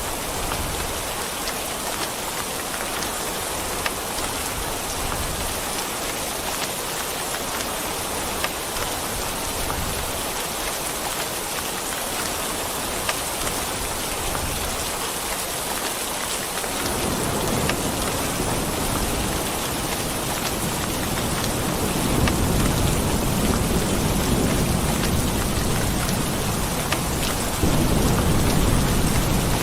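Steady rain falling, with scattered sharp drop ticks. Partway through, a low rolling rumble of thunder swells in and grows louder in waves toward the end.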